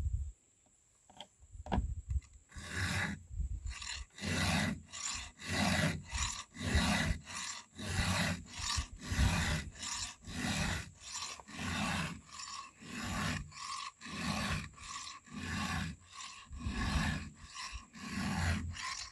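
Hand file rasping across the cutter teeth of a chainsaw chain in steady, even strokes, about two a second, starting a couple of seconds in. This is sharpening a dull, damaged chain to bring the point and cutting edge back.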